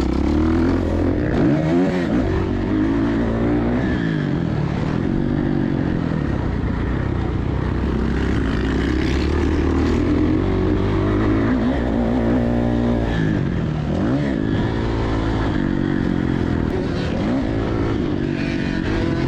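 Dirt bike engine revving hard and easing off again and again, its pitch climbing and dropping every few seconds as the rider accelerates, shifts and brakes around the track.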